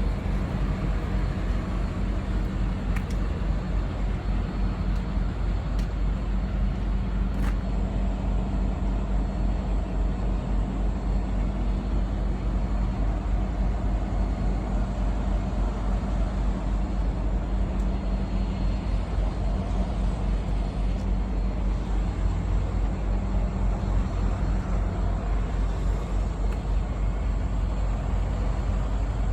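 A semi-truck's diesel engine idling steadily: a low, even rumble with a fast flutter.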